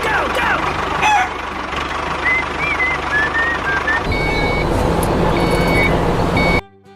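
Chickens clucking with short calls over a low vehicle engine rumble. From about four seconds in, a truck's reversing beeps sound about once a second with the engine louder. It all cuts off suddenly near the end.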